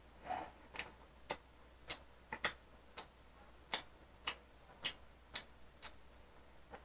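Faint, sharp wet mouth clicks of chewing a bite of burger, about two a second, slightly uneven.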